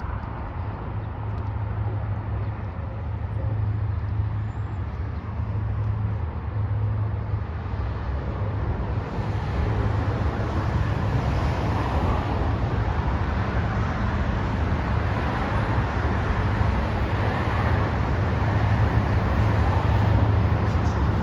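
Diesel locomotives of a freight train approaching with a steady low engine rumble, growing gradually louder.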